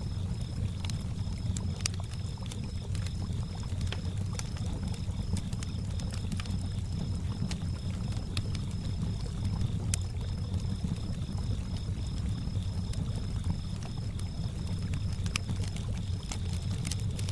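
Campfire ambience: wood fire crackling with scattered sharp pops, over water lapping at a lakeshore and crickets chirping in a fast steady pulse.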